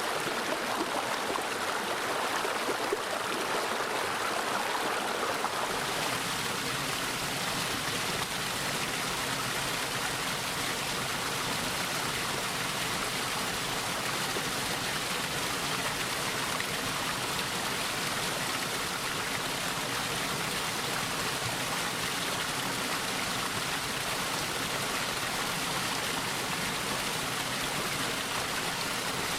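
Mountain valley stream running over rocks, a steady rush of water. About six seconds in the sound shifts to a fuller, deeper rush.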